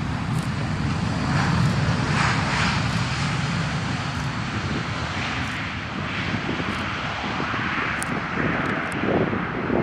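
Airbus A320 jet airliner on landing, its engines making a steady rushing noise over a low rumble that swells a little a second or two in.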